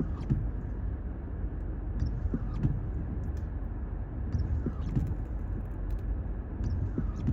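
Car cabin noise while driving: a steady low rumble of engine and tyres on the road, with a few faint clicks scattered through it.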